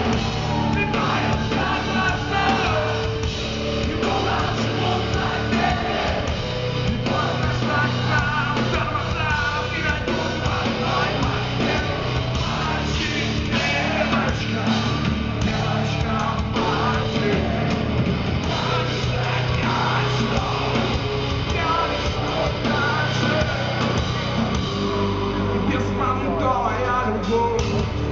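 Rock band playing a loud, dense instrumental passage with electric guitars and drums.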